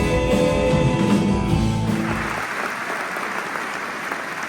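A live band's music ends about two seconds in, and audience applause follows.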